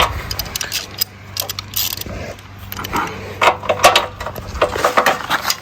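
Hand ratchet wrench clicking in short runs while backing out small bolts on a minibike, with light metal clinks of tools and fasteners.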